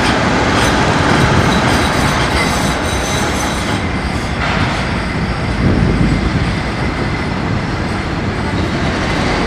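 Manchester Metrolink tram running on its rails, with a thin, high wheel squeal over the first few seconds that then fades, leaving a steady rumble of wheels and motors.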